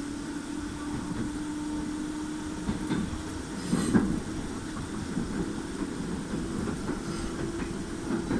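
211 series electric train running, heard from the driver's cab: a steady hum over the rumble of the wheels, with clacks as the wheels cross rail joints and points, the loudest about four seconds in.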